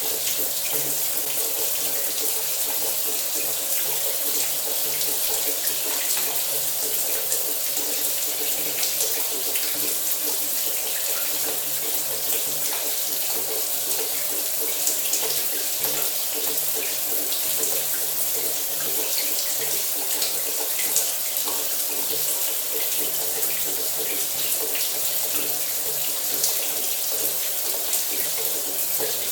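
Shower running steadily, water spraying and splashing in a continuous hiss with fine spattering, over a faint low hum.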